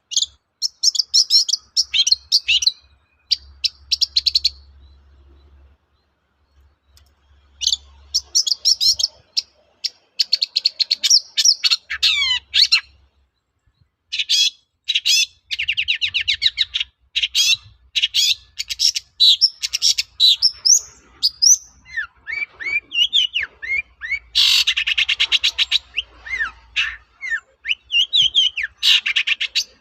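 Long-tailed shrike singing a loud, varied song of rapid chattering trills, scratchy notes and quick gliding whistles in bursts, with a few seconds' pause early on and a shorter one about halfway through before it sings almost without a break.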